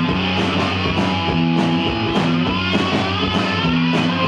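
Live rock band playing an instrumental passage between verses: electric guitar and bass over a steady drum beat, with cymbal hits about twice a second.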